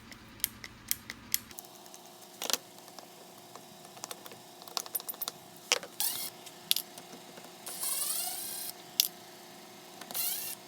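Hand tools clicking and ratcheting on a car door's handle hardware as a T10 Torx bit is put to use, with a brief rising whir about three-quarters of the way in.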